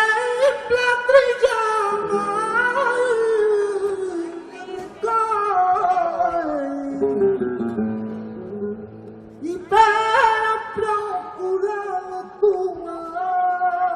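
Male flamenco singer singing a fandango live over flamenco guitar, in long, wavering melismatic phrases: one starts at the outset, another comes about five seconds in and slides down low, and a new one starts about ten seconds in.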